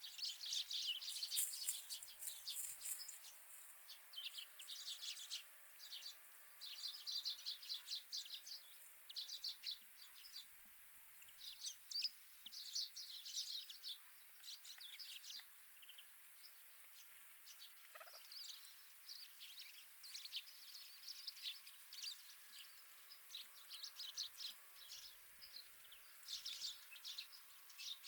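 Wild winter birds calling in quick runs of high chirps and chatter, bursts of calls with short pauses between them. A single lower call comes about eighteen seconds in.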